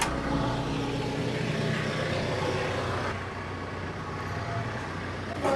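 TYM T574 compact tractor's diesel engine running steadily at low speed, a steady low hum with a hiss over it that drops away about three seconds in.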